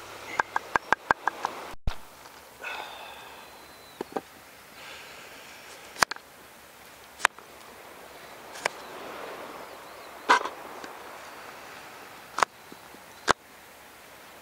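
Sharp knocks, one thing struck against another: a quick run of light clicks at the start, then single loud strikes a second or two apart.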